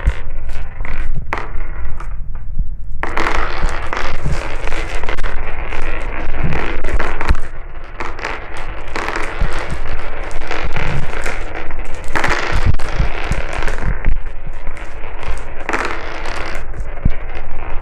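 Many glass marbles rolling and clattering down a marble run track in a continuous rattle of clicks, with a brief lull about two seconds in.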